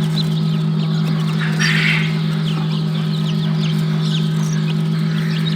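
Newly hatched chicks peeping in short, high cheeps throughout, over a steady low hum. A brief rustling hiss comes about a second and a half in.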